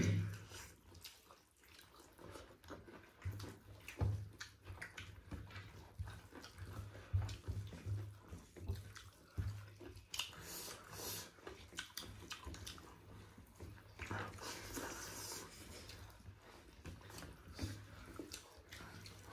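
Close-up chewing and wet mouth sounds of people eating, with scattered small smacks and clicks.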